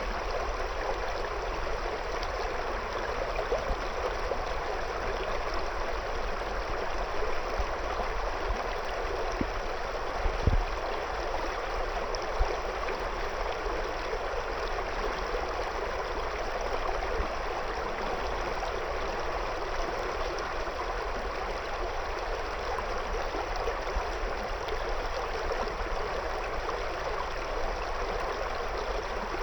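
River water flowing and gurgling steadily around stones, with a brief low thump about ten seconds in.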